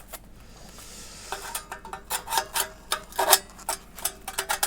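Thin titanium fire-pit parts clinking and tapping as the trivet is fitted onto a small titanium fire pit. A quick run of light metal clicks starts about a second in, some with a brief ring.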